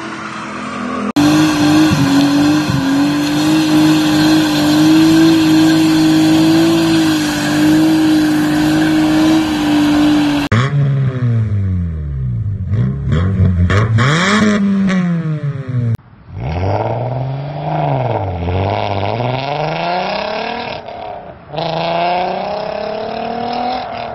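Car engines from several clips. First one engine is held at steady high revs for about nine seconds, as on a launch-control rev limiter. Then engines are revved up and down over and over.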